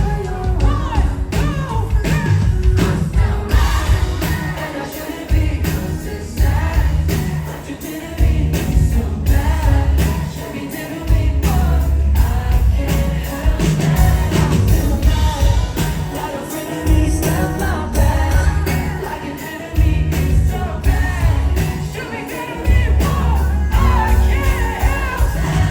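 Live pop-rock concert music from the venue PA, with a singer's voice over heavy bass and drums, heard through a phone-style recording in the crowd.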